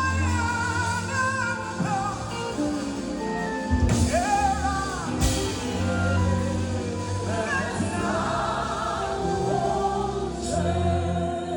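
Worship music: a voice sings sliding, held lines over steady bass and sustained chords.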